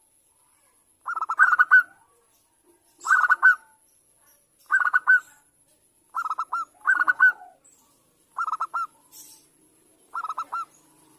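Zebra dove (perkutut) singing: short phrases of quick repeated cooing notes, one phrase about every one and a half to two seconds, six in all.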